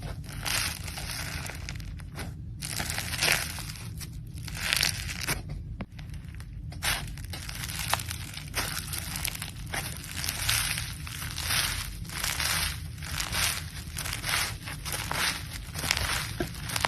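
Crunchy slime squeezed and pressed by hand, crunching in repeated bursts. At first there are a few longer crunches, then from about halfway quicker ones come about two a second, over a steady low hum.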